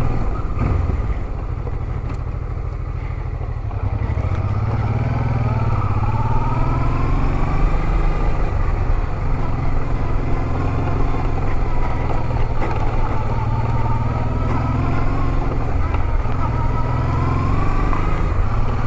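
Honda Transalp 650's V-twin engine running while riding, its pitch drifting slowly up and down with the throttle. It is a little quieter for the first few seconds, then picks up.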